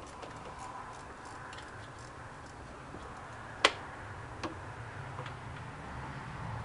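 Ratchet wrench clicking as it backs out a bell-housing bolt: scattered light ticks, with one sharp metallic click about three and a half seconds in and a softer one a second later.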